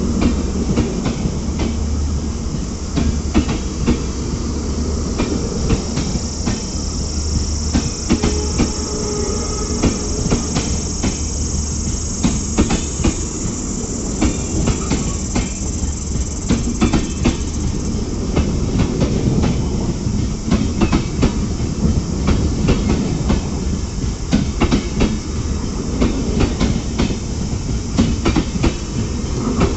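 A diesel-hauled Rajdhani Express passenger train running past at speed, its wheels clattering rapidly over the rail joints under a steady low rumble. A high-pitched whine rises for several seconds in the middle.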